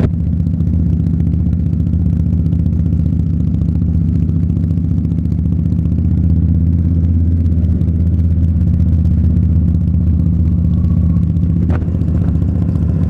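Motorcycle engine running steadily under way, a low, even drone that swells slightly midway. There is a single short click about twelve seconds in.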